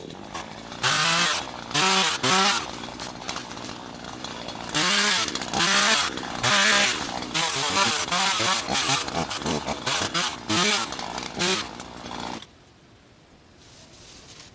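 Troy-Bilt 16-inch chainsaw revved in repeated surges while cutting fallen branches, the pitch rising and falling with each surge, then stopping abruptly about twelve seconds in.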